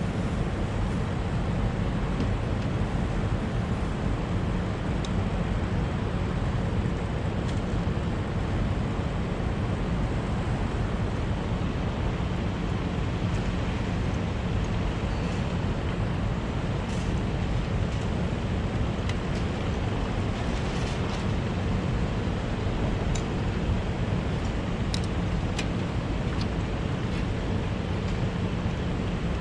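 Air-conditioning unit running: a steady low machine hum with a rushing noise over it and a few faint clicks.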